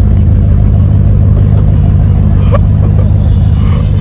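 Motor vehicle running at a steady speed: a loud, even, low drone that does not rise or fall.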